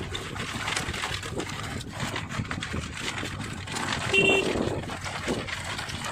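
Wind and motorcycle running noise heard from a moving bike, rough and uneven, with one short vehicle horn beep about four seconds in.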